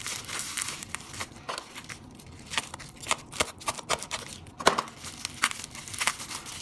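Irregular small clicks, taps and rustles of lighter parts being handled on a work bench.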